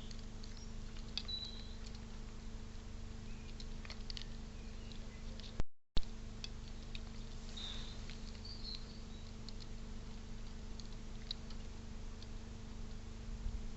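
Feeder camera's own audio: a steady electrical hum under faint scattered clicks and scratches, with a few brief high chirps. About six seconds in, the sound cuts out for a moment with a sharp click.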